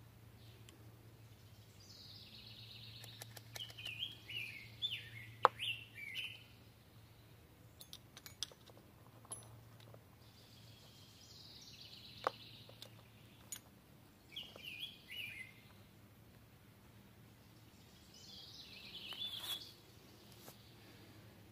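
Songbirds singing in the woods: four short bursts of quick chirping notes, with a few sharp clicks between them, the loudest about five seconds in.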